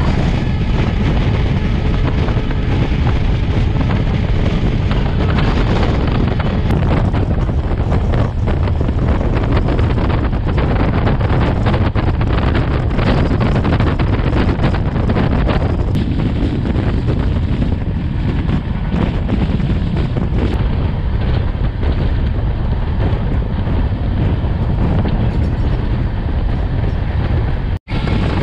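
Passenger train running at speed, heard from its open doorway: a steady rush of wind on the microphone over the rumble and clatter of the coaches on the rails. The sound cuts out for an instant near the end.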